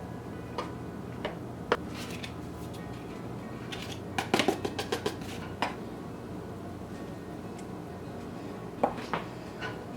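A utensil clinking and scraping against a mixing bowl as dry ingredients are mixed into batter: scattered sharp clinks, with a quick run of them about four to five seconds in, over quiet background music.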